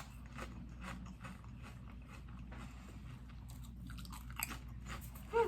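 A person chewing food with faint, irregular crunches, while tasting hot sauce. A brief pitched vocal sound, like a short "mm", comes near the end.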